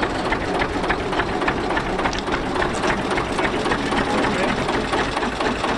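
Ruston & Hornsby diesel shunting locomotive's engine running with a steady, rapid, even clatter.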